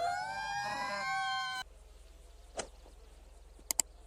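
A cat's long, drawn-out meow that rises in pitch and cuts off abruptly about one and a half seconds in. A few faint clicks follow.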